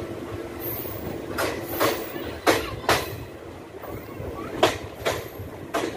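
Passenger express coach running at speed, heard from its open doorway: a steady rumble of wheels on rail with a series of sharp wheel clacks over the track, several coming in quick pairs.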